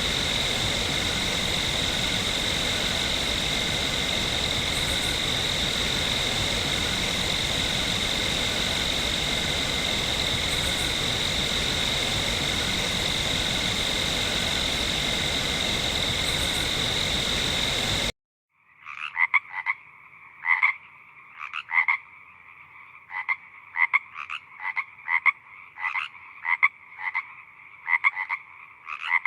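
Frog sound effects. A dense, steady chorus runs for about eighteen seconds and then stops suddenly. After it, a frog croaks in short calls that repeat two or three times a second, somewhat unevenly.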